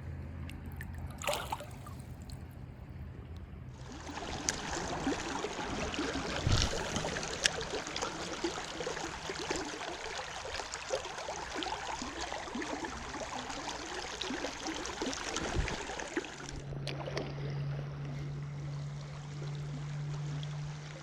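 River water rushing and trickling, growing suddenly louder about four seconds in, with a few small knocks. A steady low hum joins in near the end.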